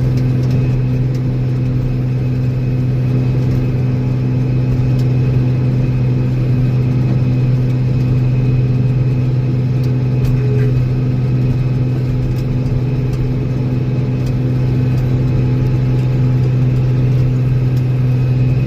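Old Steiger four-wheel-drive tractor's diesel engine running steadily at a constant speed, pushing a dozer blade through snow drifts.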